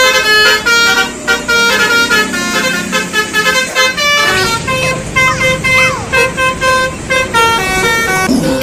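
Basuri-style telolet bus horn playing a quick melody of short, changing multi-tone notes, with a couple of quick sliding notes in the middle.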